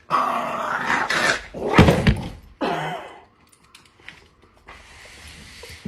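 A loud rushing scuffle, then a heavy thump about two seconds in, followed by a short vocal sound that falls in pitch.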